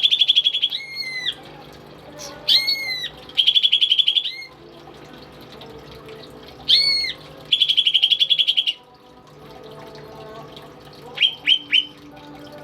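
A cucak ijo (green leafbird) singing loudly, alternating a rapid buzzing trill of about a second with single arching whistled notes, three times over, then three quick short notes near the end.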